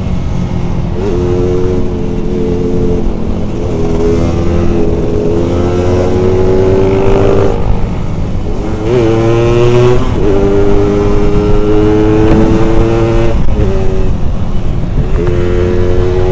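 Yamaha RX-King's single-cylinder two-stroke engine under hard acceleration. Its pitch climbs steadily in each gear and drops back at each of about half a dozen gear changes, over a heavy rumble of wind on the microphone.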